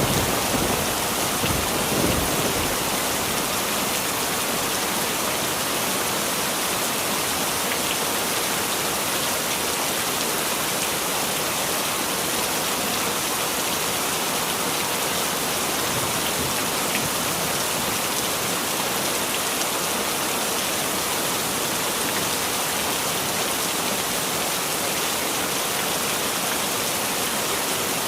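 Heavy rain falling steadily, with the last of a low thunder rumble dying away in the first couple of seconds.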